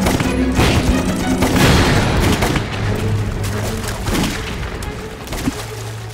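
Battle sound effects of gunfire and explosions over a dramatic orchestral-style music score; the shots and blasts come thick in the first two seconds and thin out after.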